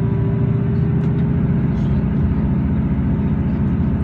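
Diesel passenger train's engine drone and running noise, steady and low, heard from inside the carriage as the train moves along.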